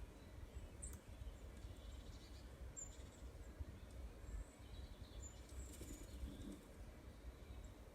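Faint, scattered high bird chirps, a few short ones spaced a second or two apart, over a low steady background rumble.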